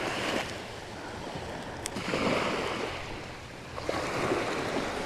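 Ocean surf breaking and washing up the beach, swelling and easing in slow surges.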